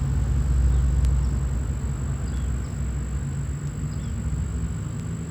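Low engine rumble of a motor vehicle, swelling about a second in and then easing off.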